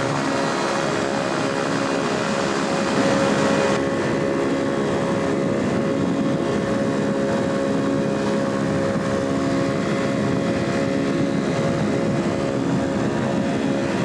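Pterodactyl ultralight airplane's engine and propeller running steadily in flight, with a constant drone and rushing air noise. The high end dips slightly about four seconds in.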